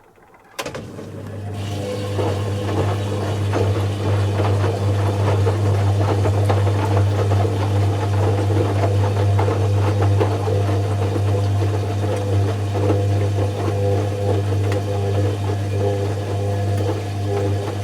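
Zanussi FC1000 washing machine switching on suddenly and running with a steady mains hum, typical of its drain pump pumping out water.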